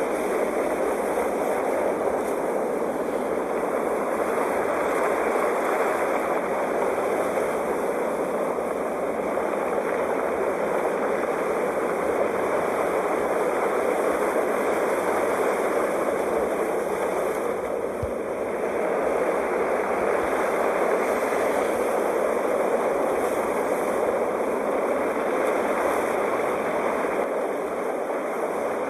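Sea waves breaking: a continuous, even wash of surf with little rise and fall, easing slightly about eighteen seconds in.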